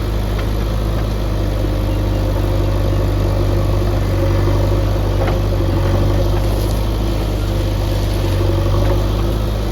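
Heavy diesel engine running steadily at a low, even speed, with a few faint knocks.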